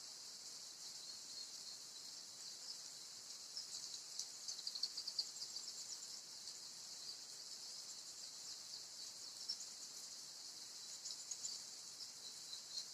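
Domestic canary giving short bursts of rapid, high chirping notes, about four seconds in and again near the end, over a steady high hiss.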